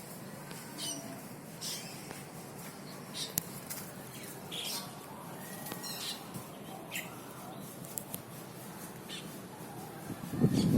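Cucak keling bird giving short, sharp high calls over and over, about one a second, some sliding downward. A loud low rumble sets in right at the end.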